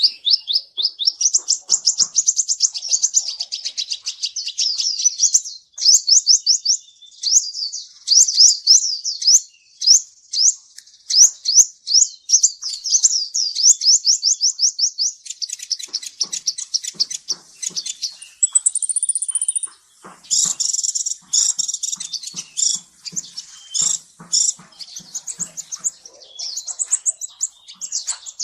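Kolibri ninja sunbird singing: long runs of rapid, high-pitched twittering notes with a few short breaks.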